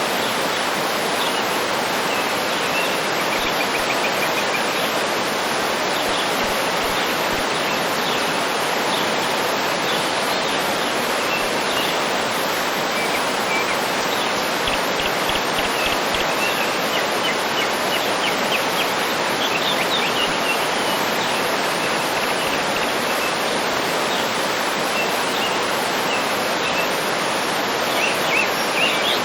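A waterfall rushing steadily, with birds chirping in short calls over it, busiest toward the middle and the end.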